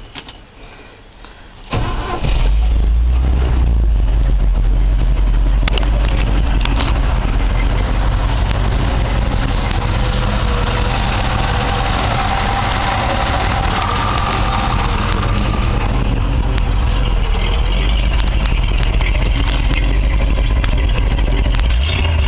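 The engine of a 1968 International Harvester 1300 dump truck, an International 304 V8, starts: it catches about two seconds in and then runs steadily.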